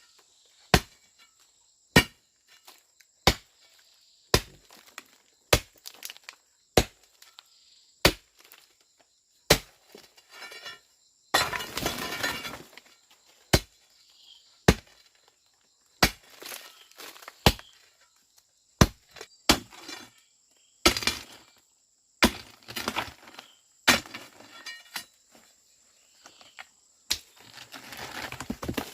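A hand tool striking something hard over and over, about one sharp, ringing blow every second and a bit, with two longer rattling, crunching stretches in between.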